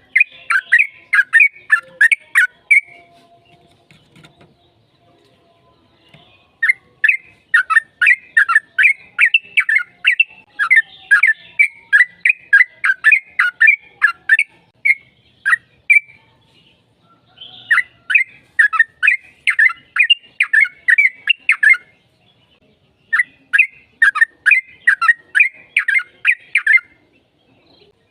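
Yellow-vented bulbul (trucukan) singing long runs of quick, chattering notes, four runs with short pauses between them.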